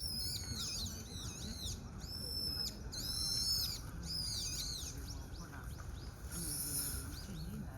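Birds calling: a rapid series of high, thin whistled notes that rise and fall, thick for the first four seconds and then thinning out to scattered fainter calls.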